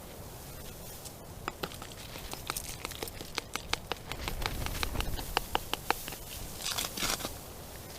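A run of small dry clicks and rustling from a feeder being handled and filled with groundbait of crushed rusks and sunflower seeds. The clicks come fast for a few seconds, then a brief rustle near the end.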